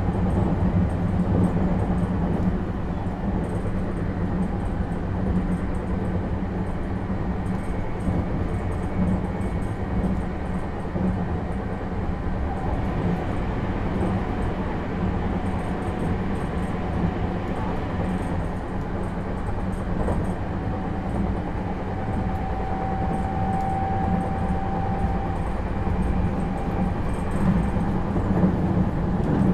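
JR East 651 series electric train heard from inside the car while running: a steady rumble of wheels on rail, with a faint brief whine about three-quarters of the way through.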